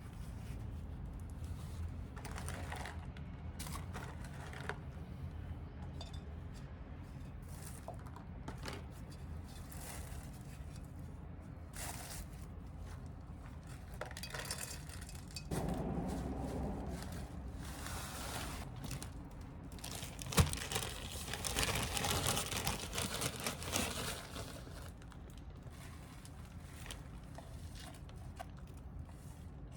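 Irregular handling noises: rustling, crinkling and scraping with scattered light clicks, busier in the second half, and one sharp knock about twenty seconds in.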